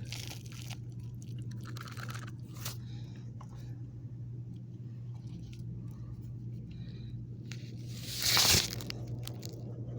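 Dirt crunching and scraping as soil is dug out from under a buried cardboard toy box, in scattered small crunches, with a louder scraping rush about eight seconds in. A steady low hum runs underneath.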